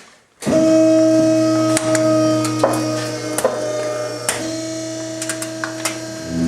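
Trash compactor's motor starting about half a second in and running with a loud, steady hum, with scattered sharp clicks and cracks over it.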